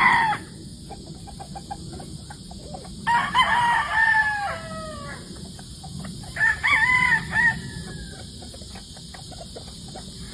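Roosters crowing: a crow ending right at the start, a long one about three seconds in and a shorter one near seven seconds, with soft hen-like clucking in between.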